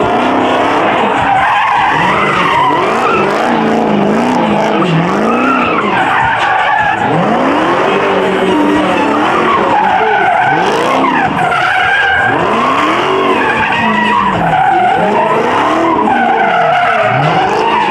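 Car engines revving up and down over and over while the tyres spin and squeal, as in burnouts and donuts, loud throughout.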